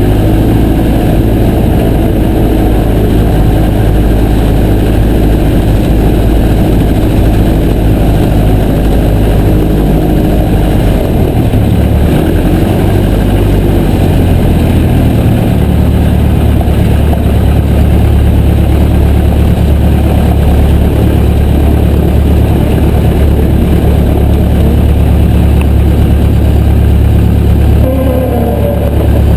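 Piper J3 Cub's engine and propeller running loudly and steadily, the engine note shifting around the middle and then holding at a new steady pitch.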